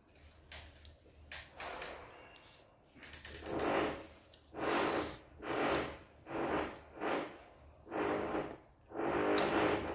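Close-up chewing of mouthfuls of food, a steady rhythm of about one chew a second that starts about three seconds in after a few light clicks.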